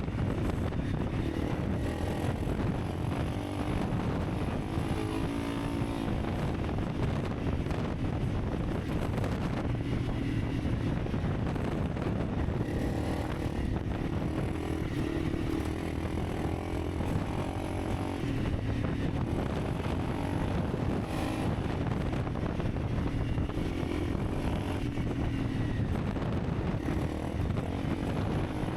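Honda CRF300 Rally's single-cylinder four-stroke engine running steadily while the bike is ridden, its note rising and falling a little, over a constant rush of riding noise.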